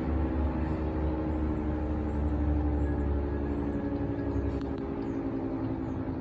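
Federal Signal 3T22A outdoor warning siren sounding a steady multi-note tone on its noon test, easing slightly in loudness near the end. Faint bird chirps are heard behind it.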